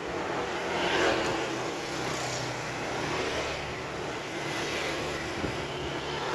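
Street traffic: motor vehicles running past with a steady engine hum, swelling briefly about a second in.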